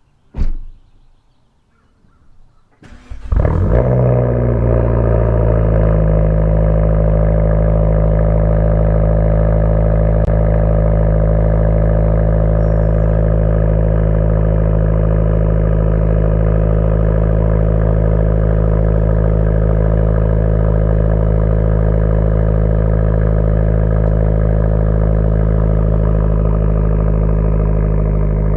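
A single thump about half a second in. About three seconds in, a Fiat 500 Abarth's 1.4-litre turbocharged four-cylinder with an MPx catback exhaust starts, its revs flare briefly and settle, and it idles steadily.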